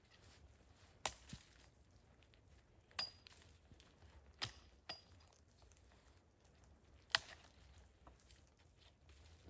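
A handful of sharp, separate knocks and clicks at irregular intervals, about six in all, a few with a brief high metallic ring, over a faint steady hiss.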